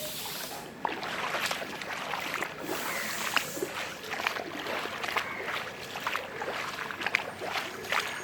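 Knee-deep floodwater splashing and sloshing in irregular strokes as someone wades through it. The splashing starts about a second in, over a steady hiss of moving water.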